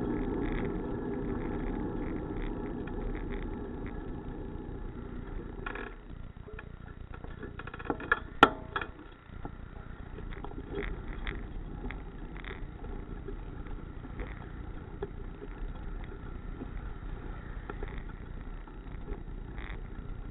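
Steady running noise of a road vehicle, louder at first and fading over the first six seconds, with a few sharp clicks about eight seconds in.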